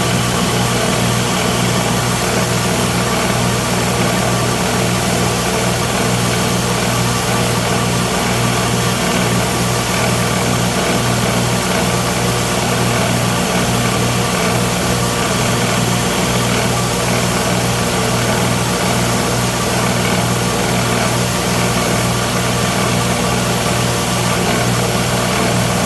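Electric belt grinder running steadily while shaping and sanding a knife handle: a constant motor hum with an even hiss over it.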